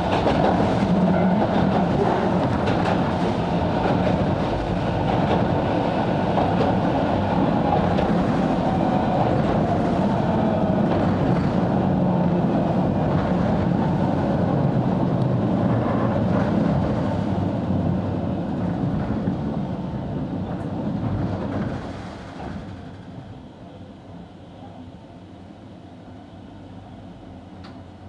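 Sangi Railway 270-series narrow-gauge electric train running, heard from inside the car: a steady rumble of wheels on rail with motor hum and a clickety-clack over rail joints. About three quarters of the way through the noise drops to a much quieter level.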